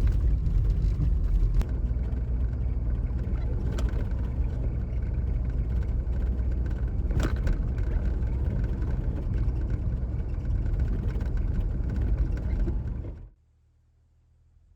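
Steady low rumble of a vehicle driving, engine and road noise together, with a couple of faint clicks. It cuts off abruptly about 13 seconds in.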